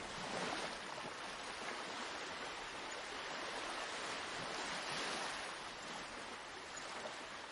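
Sea waves washing onto the shore, a steady hiss of surf that swells gently about half a second in and again around five seconds in.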